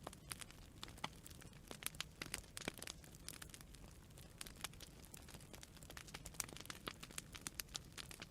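Campfire crackling: burning wood giving off irregular sharp pops and snaps, several a second at times, over a low steady rumble.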